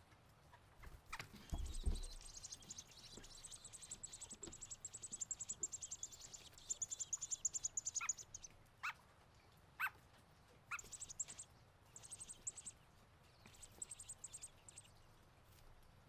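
Baby robins begging in the nest as a parent feeds them: rapid high-pitched chittering, first a long bout and then several shorter ones. There are a few short downward chirps in the middle and a low thump about two seconds in.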